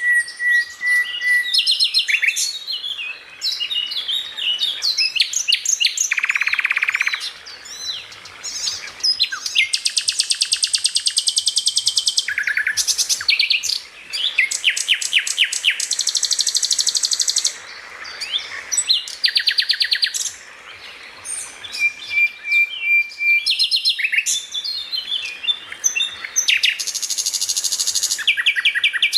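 Songbird singing a loud, varied song of held whistles, fast trills and rapid runs of repeated notes, phrase after phrase with short pauses between them.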